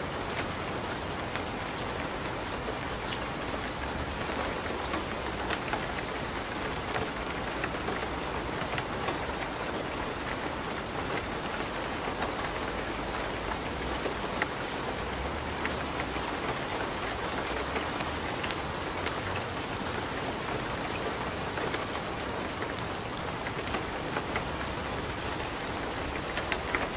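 Wood fire in a fireplace crackling, with a steady hiss and frequent sharp pops and snaps scattered throughout.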